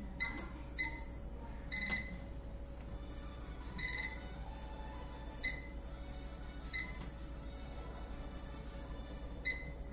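Microwave oven keypad beeping as buttons are pressed: about seven short high beeps at irregular intervals, two of them longer, over a faint steady hum. The microwave is not accepting the cooking time being keyed in.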